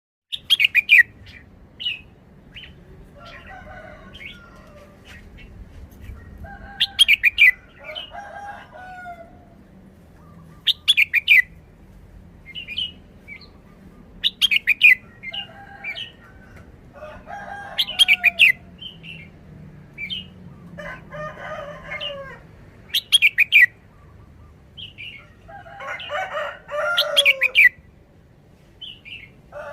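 Red-whiskered bulbul singing short, loud whistled phrases, repeated every three to four seconds. Lower, longer calls from another bird come between the phrases.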